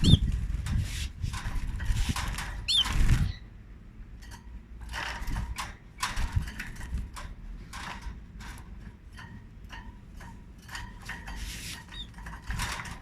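Canaries making a few short chirps among frequent small clicks and rustles. Heavy low rumble fills the first three seconds, then stops abruptly.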